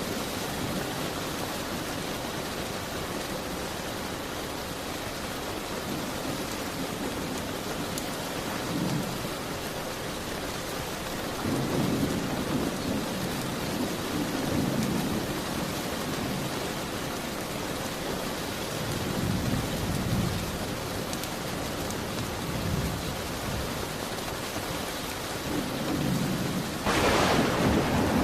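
Steady rain, with low rolls of thunder swelling and fading several times. The loudest and sharpest peal comes near the end.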